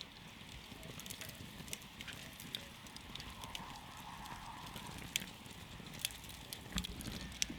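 Campfire wood crackling and popping: irregular sharp snaps over a low, steady rush of the flames, with the sharpest pop near the end.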